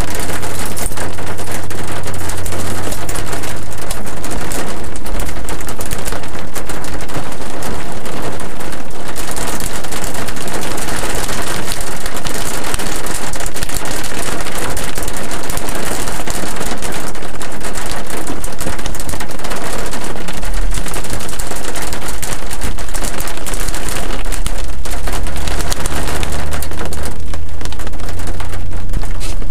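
Rain pelting the car's roof and windshield, heard from inside the car as a loud, dense patter of countless small impacts. A low rumble rises near the end as the car pulls away.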